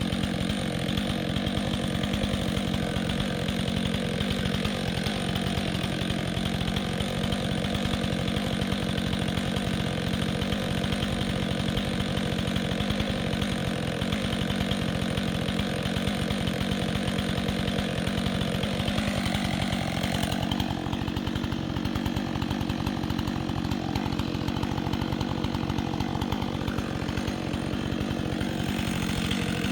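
Chainsaw engine running steadily. About twenty seconds in, its tone changes and the high hiss falls away.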